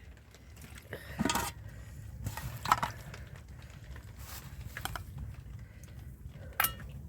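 Kitchenware being handled: scattered short clinks and knocks, some ringing briefly, the sharpest about a third of the way in and near the end, over a low steady rumble.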